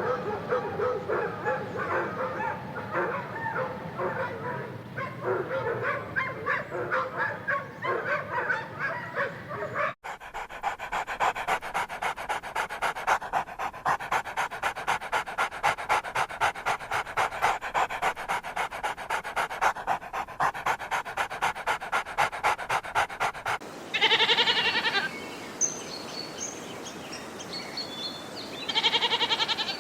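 Dogs yipping and whimpering in a dense jumble; then, after a cut about ten seconds in, a dog panting fast and steadily; then, near the end, two loud, wavering goat bleats with faint bird chirps.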